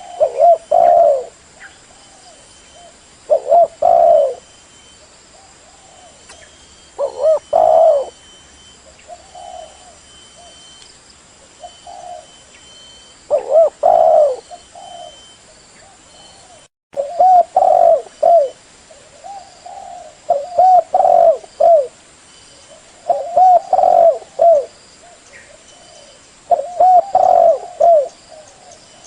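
Spotted dove (tekukur) cooing in repeated phrases of a few low coos, each phrase a few seconds apart: a call recording used to lure the birds. The sound cuts out for a moment about two-thirds of the way through.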